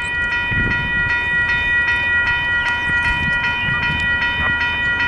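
Railroad crossing bell ringing rapidly and steadily, about three strikes a second, with wind rumbling on the microphone.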